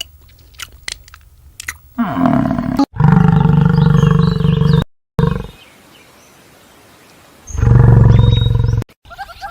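Cow mooing: a short call falling in pitch, then two long, steady, low moos, cut together with abrupt edits and a quiet gap between them.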